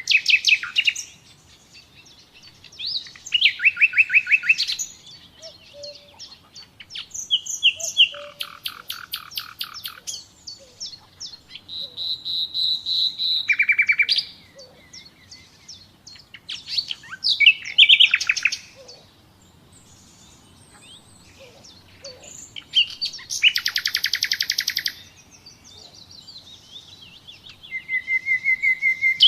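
Common nightingale singing: loud, varied phrases of rapidly repeated notes and trills, about seven of them, separated by short pauses.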